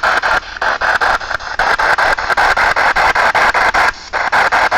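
P-SB7 spirit box sweeping through radio stations: a steady hiss of radio static chopped into rapid, evenly spaced bursts several times a second as the tuner jumps from frequency to frequency.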